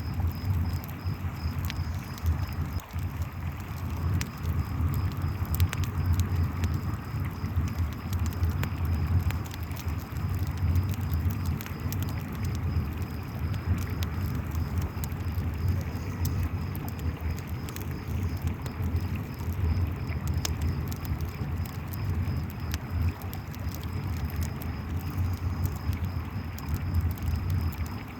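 Layered river and campfire ambience: the river's steady low rush of running water, crickets trilling in an even high pulse, and the fire's crackle as scattered sharp pops.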